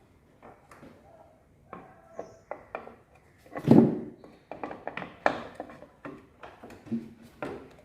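Scattered knocks and clinks of hand tools and engine parts during motorcycle engine assembly, with one louder thud about four seconds in.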